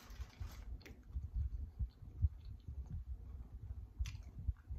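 Close-miked chewing of a bite of homemade spinach and jerk chicken pizza: soft irregular thuds with wet mouth clicks, and a short breathy rush at the start.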